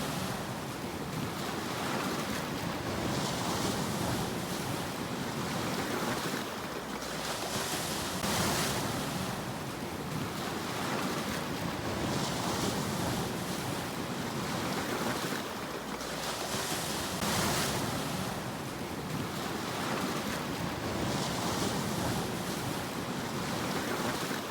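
Sea surf: waves breaking and washing onto the shore, a swell of hissing spray about every four seconds over a continuous rush of water.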